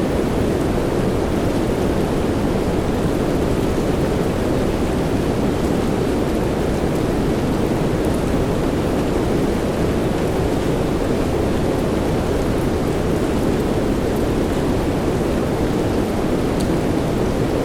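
Steady soft rain blended with white noise: an even rushing hiss, fullest in its lower range, with a few faint drop ticks.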